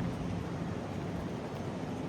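Steady outdoor rushing noise with a low hum that drops out just after the start and comes back near the end.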